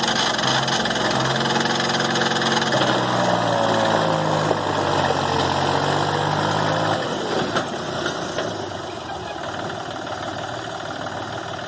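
Mahindra tractor's diesel engine running hard under load, its pitch wavering as it works to pull out of mud. About seven seconds in it drops off to a quieter, rougher run.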